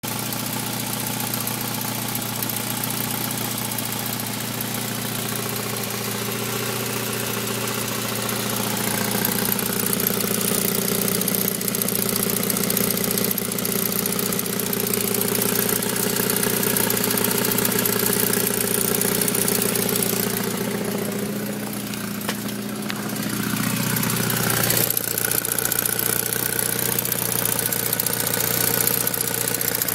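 Saab 9000 Aero's turbocharged four-cylinder engine idling with a ticking noise whose cause the owner doesn't know. The engine note dips and picks up again about three quarters of the way through.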